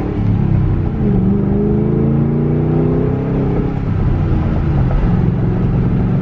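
A 2007 Ford Mustang GT's V8, heard from inside the cabin, pulling under light throttle while the engine is still cold. The revs climb for about three seconds, drop a little before the four-second mark, and then hold steady as the car cruises.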